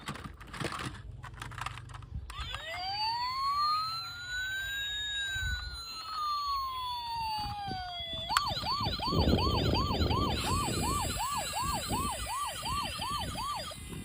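Electronic emergency-vehicle siren: one slow wail that rises and falls, switching about eight seconds in to a fast yelp of about two to three cycles a second. A few clicks come before it.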